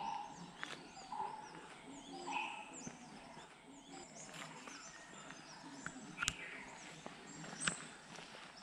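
Birds chirping and calling in the trees, with a few footsteps on the path.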